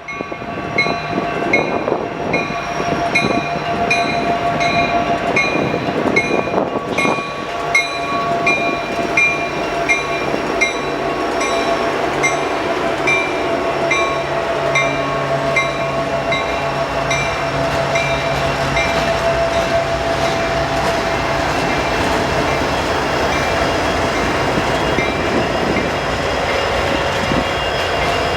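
Train passing with continuous rail rumble, while a railroad crossing bell rings steadily at about one and a half strokes a second.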